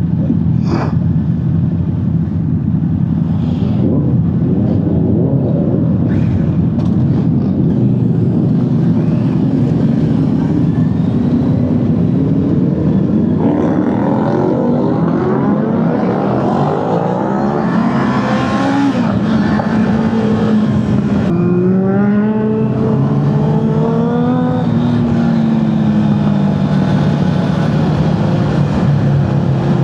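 Honda CBR650R inline-four motorcycle engine under way, running steadily at first, then accelerating hard from about halfway with its pitch rising. Around two-thirds through the pitch drops suddenly, then climbs again and settles.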